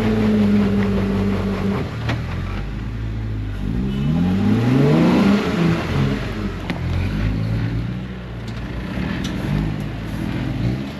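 Off-road 4x4 engine revving on a climb. The engine note eases down at first, climbs sharply about four seconds in, then drops back, with a few faint knocks.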